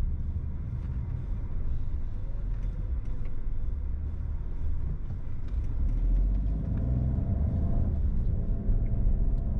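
Car driving on the road, a steady low rumble of engine and tyres heard from inside the cabin. A faint droning hum joins about six seconds in.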